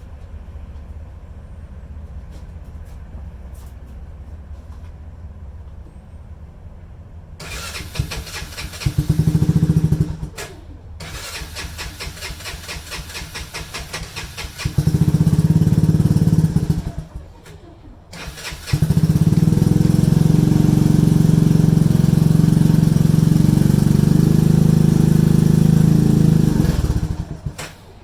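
Cold-start attempt on an ATV engine. It cranks about seven seconds in and fires briefly, cranks again and catches for a couple of seconds before dying, then fires and keeps running loudly, faltering briefly near the end.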